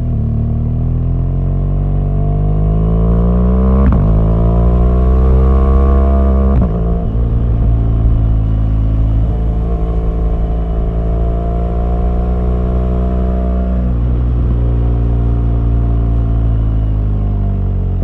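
BMW R1200GS boxer-twin engine pulling under load, its revs climbing through the first few seconds with quick gear changes about 4 and 6.5 seconds in. It then settles at a lower steady pitch, with a slow rise and an easing off near the end.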